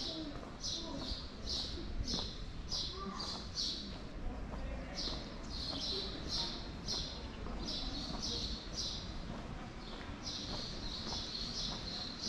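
Small birds chirping in quick runs of short, high chirps, about three a second, with brief pauses, over a low background rumble.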